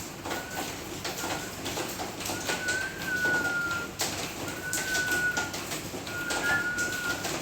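Hill myna giving a series of flat, level whistles at one pitch: two short ones, then three longer ones of about a second each, with scattered clicks and rustling in between.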